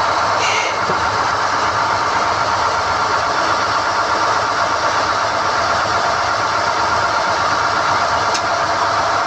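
Drilling rig's engine running steadily at an even pitch, with a brief metallic clink just after the start and a single sharp tick near the end.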